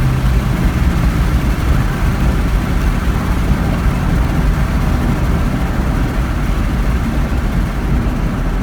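2007 Ford Mustang GT's 4.6-litre V8 and road noise heard from inside the cabin while driving, a steady low rumble with no marked rise or fall.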